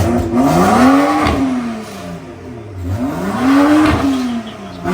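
BMW 335i's turbocharged N55 inline-six free-revved through a catless downpipe and muffler-deleted exhaust with its exhaust flap welded open. There are two revs, each climbing for about a second and dropping back, and a third starts at the end.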